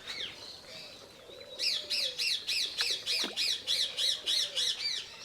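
A bird calling: a quick run of a dozen or so repeated squawking notes, about four a second, starting about a second and a half in.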